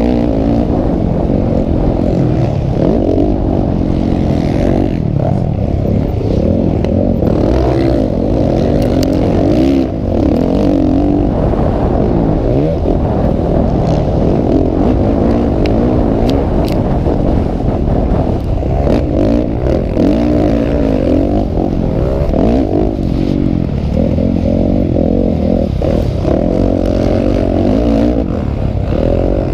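Motocross bikes racing, several engines revving up and down over one another without a break.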